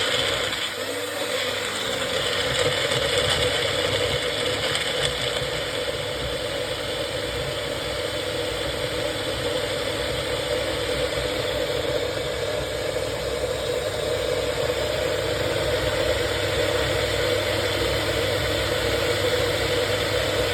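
Bullet blender motor running steadily under load as it purées raw pumpkin, stopping abruptly near the end.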